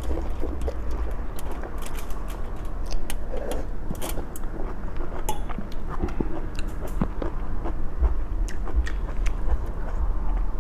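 Close-miked eating sounds: chewing and biting, with many small sharp clicks of cutlery against dishes.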